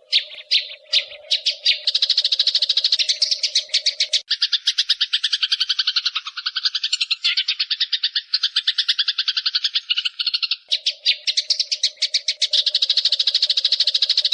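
Eurasian tree sparrows chattering in a rapid, unbroken run of high chirps, about ten or more a second, the excited calling of sparrows squabbling. A low steady hum sits under the chatter, dropping out from about four seconds in until near the end.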